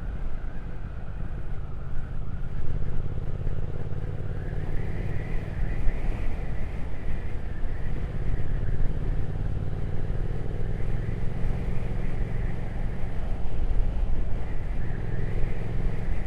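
Triumph Speed Twin 1200's parallel-twin engine running steadily as the motorcycle rides along.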